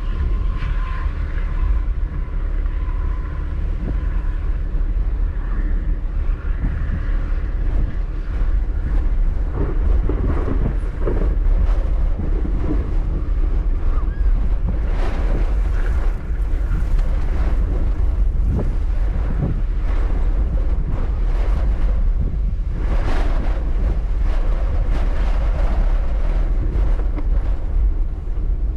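Strong wind buffeting the microphone: a loud, steady low rumble with several stronger gusts.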